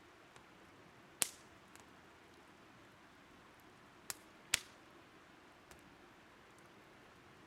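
Burning firewood crackling, with a few sharp pops: a loud one about a second in and two close together past four seconds, with smaller ticks between. Under it runs the faint steady rush of a river.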